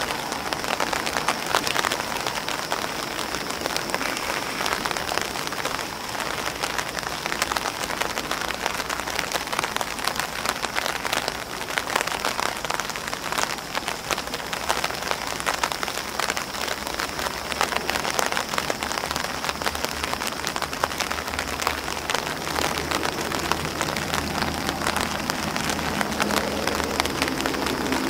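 Rain falling on an umbrella and on grass leaves: a steady, dense patter of many individual drops.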